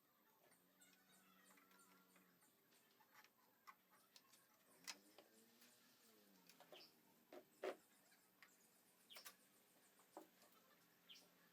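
Near silence: faint scattered light clicks and taps over a faint low hum that dips in pitch about halfway through.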